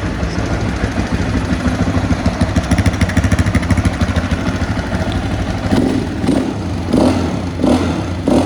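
Motorcycle engine running close by, picking up speed briefly about two to three seconds in, then settling back to a steady run.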